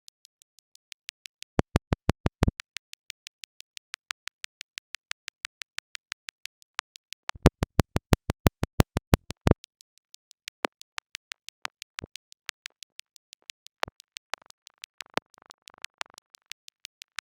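Electronic robotic sound effect: a rapid, even train of sharp synthetic clicks, about eight a second, with two louder runs of a second or two. A faint noisy buzz joins near the end.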